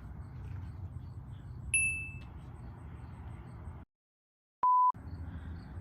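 A single bright, chime-like ding that rings briefly and fades, over a low steady background hum. About two seconds later the sound cuts out completely, and a short, loud single-pitch beep sounds.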